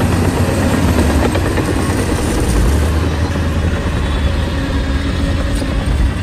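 Shantui bulldozer's diesel engine running loud and steady under work, a deep rumble.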